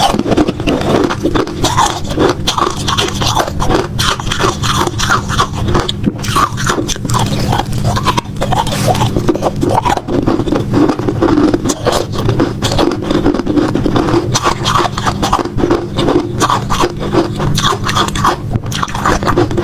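Frozen matcha ice being bitten and chewed close to the microphone, a dense run of crunches and crackles with no let-up.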